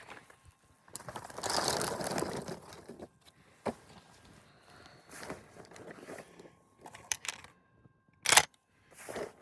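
Handling noise as a 20-gauge shotgun is loaded and readied: rustling, then a few single sharp clicks, with one short, louder knock near the end.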